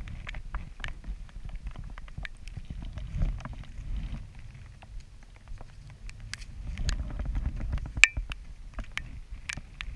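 Raindrops ticking as many irregular sharp clicks over a low steady rumble; one sharper tick about eight seconds in is the loudest.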